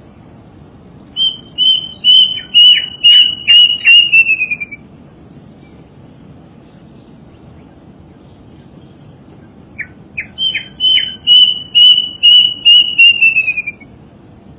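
A songbird singing two phrases, the first about a second in and the second near the end. Each phrase is a run of repeated, evenly pitched high notes that speeds up slightly and ends in a short falling slur. A steady low hiss lies underneath.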